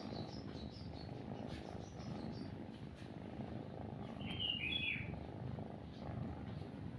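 A cat purring steadily and close, under small birds chirping faintly; a louder bird call comes about four and a half seconds in.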